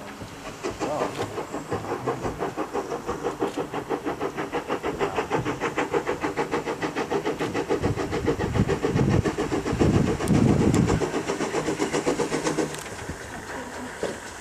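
Steam train passing with a fast, even beat, growing louder to a peak and then dropping away sharply near the end.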